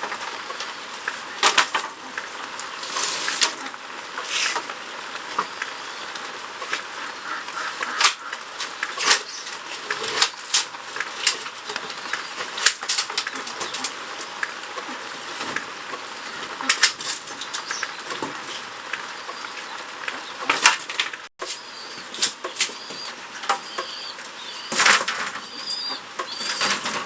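Hand work with bamboo: irregular sharp cracks and snaps over rustling. Faint bird chirps come in during the last few seconds.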